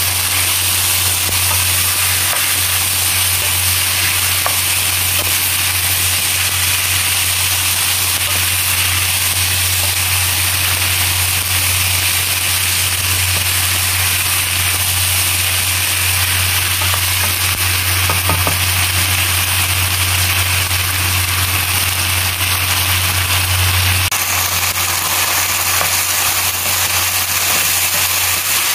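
Chicken and sliced onions sizzling in a nonstick wok while being stirred with a wooden spatula, a steady frying hiss. Under it runs a steady low hum that drops in level about 24 seconds in.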